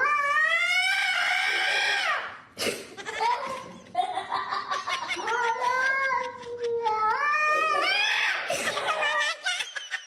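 Domestic cat yowling in several long, drawn-out calls that rise and fall in pitch, the longest lasting about three seconds in the middle.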